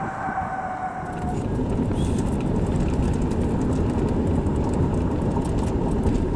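Steady low rumble of a vehicle on the move, with faint scattered ticks. A high whine falls in pitch and fades out in the first second and a half.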